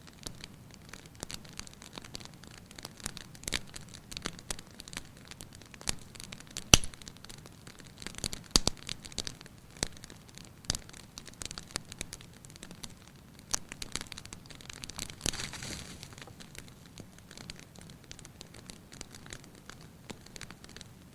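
Fireplace fire crackling: scattered sharp pops over a soft hiss, the loudest pop about a third of the way in. A short hiss comes a little past the middle.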